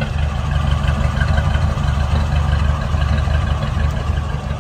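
1949 Ford F1 pickup's original 239 flathead V8 idling steadily, a low exhaust rumble that swells slightly through the middle and is running smoothly, "like a sewing machine".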